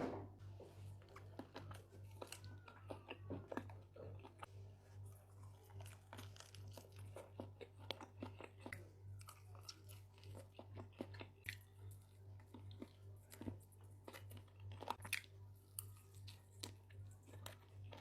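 Close-up crunching and chewing of crispy fried chicken: many small, sharp crackles as the coating breaks between the teeth, over a faint steady low hum.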